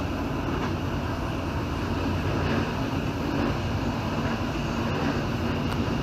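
Steady rumble of a passenger train running along the track, heard from on board.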